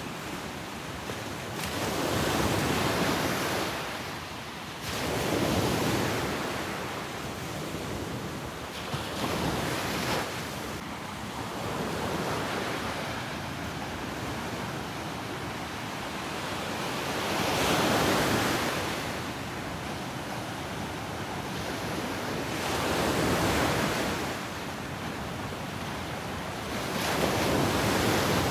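Ocean surf on a beach: waves breaking and washing in, swelling and fading in about six surges, a few seconds apart.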